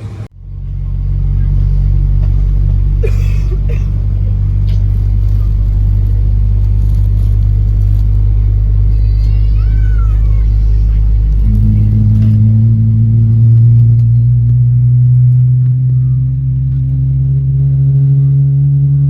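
Boeing 777-300 heard from the cabin on the ground: a steady low engine and airframe rumble, then about eleven seconds in a hum comes in and climbs slowly in pitch as the engines spool up.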